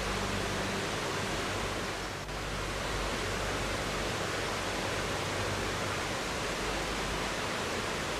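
River water rushing: a steady, even noise with a brief slight dip about two seconds in.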